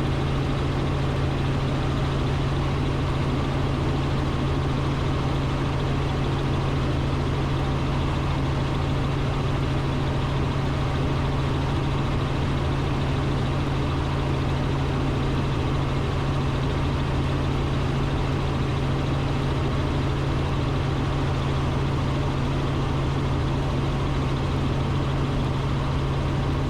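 Robinson R44 Raven II helicopter in steady cruise flight, heard inside the cabin. Its six-cylinder piston engine and rotors make a constant drone with a strong, unchanging low hum.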